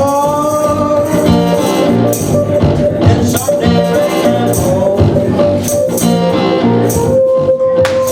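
Live band music with tambourine and a held singing or lead melody over a steady beat.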